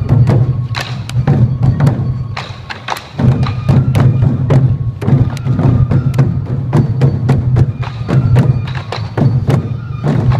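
Sansa-odori festival music: a group of waist-carried taiko drums struck together in a brisk, driving rhythm, with a high bamboo flute playing over them.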